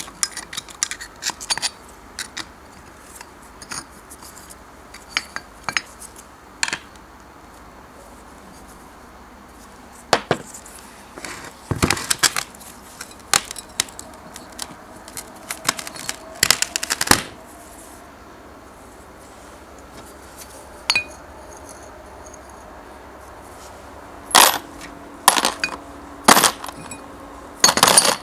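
Irregular metal clinks and knocks, some ringing briefly: small metal parts and tools being handled and set down while an old parquet polisher is taken apart for restoration.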